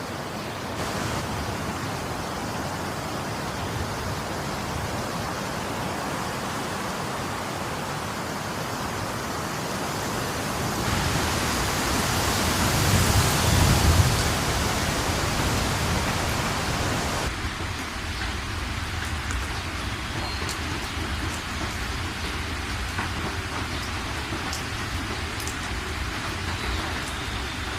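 Steady heavy rain, with a low rumble of thunder swelling in the middle and peaking about halfway through. Near the two-thirds mark the sound changes abruptly to lighter rain with individual drops ticking.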